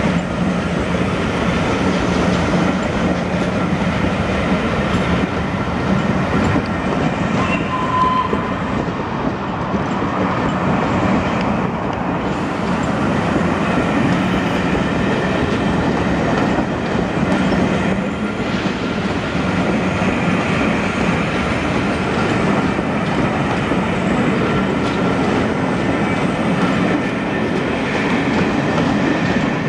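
A train passing close by on the line, a steady loud rumble with wheels clattering over the rail joints.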